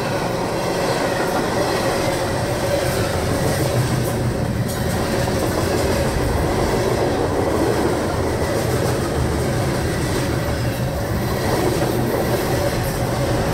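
Freight train rolling steadily, its wheels and cars running on the rails in a continuous even noise, heard from aboard the train.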